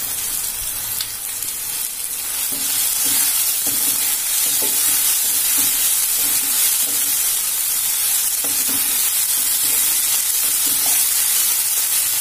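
Onions and tomatoes sizzling in a nonstick pan while ginger-garlic paste is stirred in with a wooden spatula, the spatula scraping through the mixture in repeated strokes. The sizzle grows louder about two and a half seconds in, when the stirring starts.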